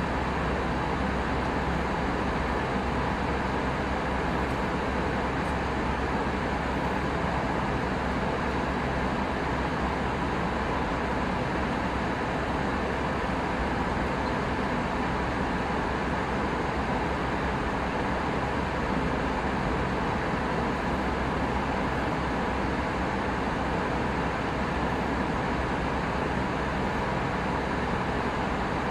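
Steady cabin noise inside an Airbus A319 in flight: an even rush of airflow over the fuselage with a low engine hum underneath, unchanging throughout.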